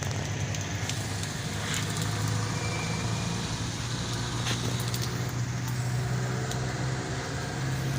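A motor vehicle engine running steadily at low revs, with a few brief clicks.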